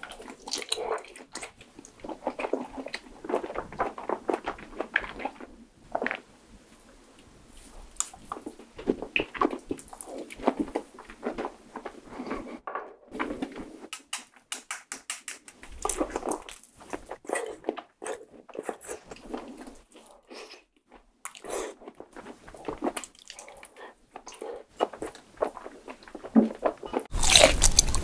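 Close-miked chewing and wet mouth sounds of someone eating marinated salmon, in short irregular clusters with brief pauses. About a second before the end, a louder stretch of chewing begins.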